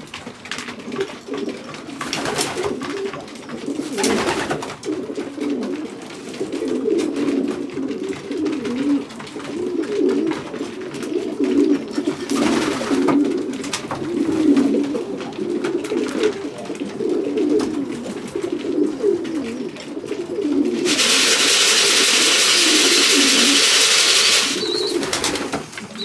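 Racing pigeons cooing in a small loft, a continuous low murmur of overlapping coos. A few brief rustles cut in, and near the end a steady rustling hiss lasts about three seconds.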